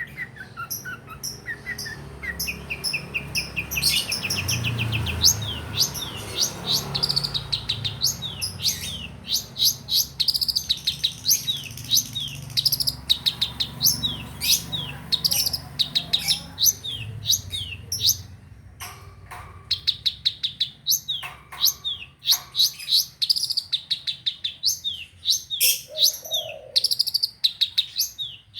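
Long-tailed shrike (pentet) singing: rapid runs of sharp chirps and quick downward-sweeping notes, with short pauses between phrases near the end. A low rumble sits underneath for the first half or so.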